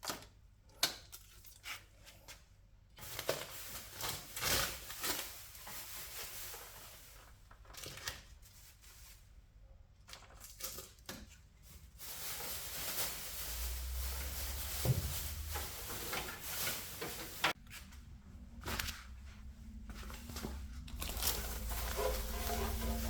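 Masking tape and paper being peeled off and crumpled: irregular tearing and rustling rasps with short pauses between them.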